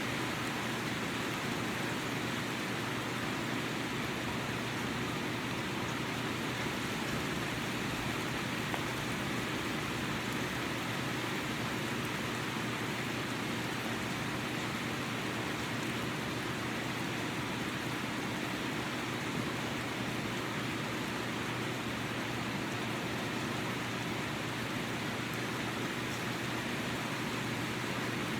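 Steady rain falling: a constant, even hiss with no breaks.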